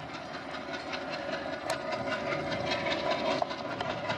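Diesel-hauled passenger train approaching: a steady rush of wheels on rail with rapid clicking from the rail joints, growing louder.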